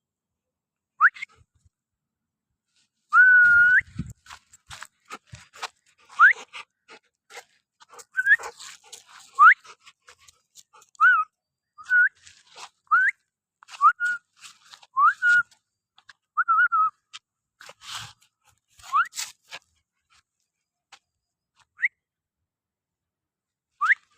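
Dog whining in many short, high-pitched rising whines at irregular intervals, with one longer whine about three seconds in, among scattered clicks and rustles.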